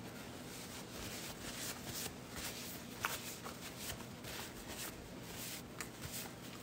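Faint paper napkin rustling as it is wiped over the mouth, then quiet closed-mouth chewing with small irregular clicks and smacks.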